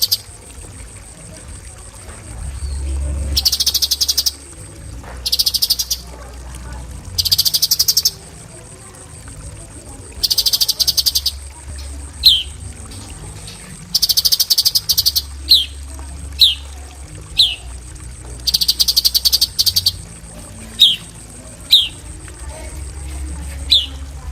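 Cucak cungkok giving its 'tembakan' song: repeated harsh, very rapid trills about a second long, with short, sharp, downward-sliding whistled notes between them, several in quick succession near the end.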